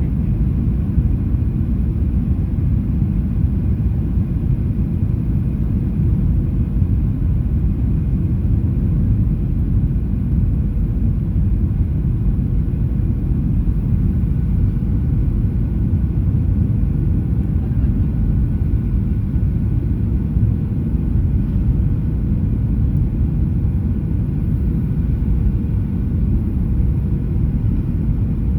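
Boeing 737-800 passenger cabin in flight: a steady, deep rumble of engine and airflow noise, with faint steady tones above it.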